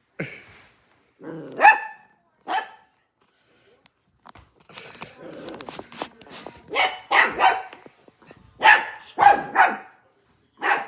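A pet dog barking in short sharp barks: single barks early on, then quick runs of two or three. In between there is a stretch of rustling and light knocks.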